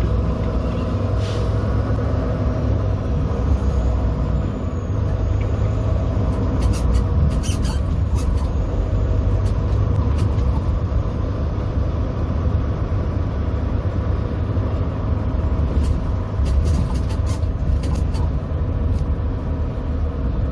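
Semi truck's diesel engine running as it drives slowly, heard from inside the cab: a steady low rumble, with a few scattered light clicks.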